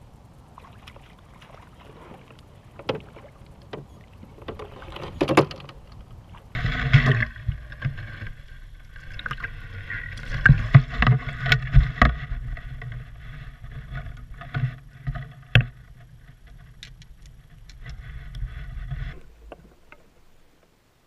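Knocks and water noise from a fishing kayak on the water, with scattered sharp knocks at first, then a louder stretch of sloshing and knocking that stops abruptly near the end.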